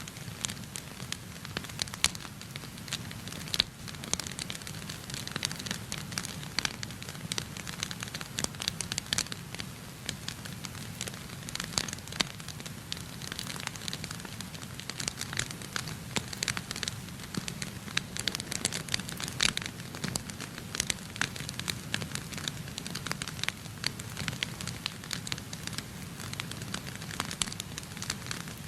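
Wood fire burning in a fireplace, crackling with frequent, irregular sharp pops over a low steady rumble.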